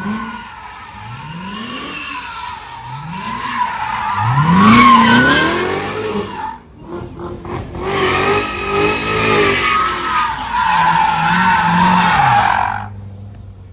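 A car's engine revving up and falling back again and again while its tyres squeal against the pavement, a car spinning its wheels. The squeal breaks off briefly about halfway, picks up again, and fades out near the end.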